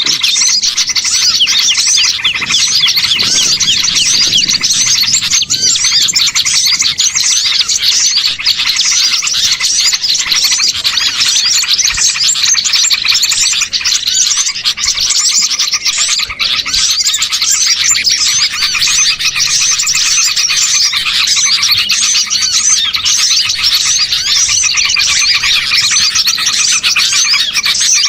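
A dense, unbroken chorus of many small songbirds chirping and trilling over one another. It is a bird-trapping lure recording of mixed small-bird calls, played to draw wild birds in.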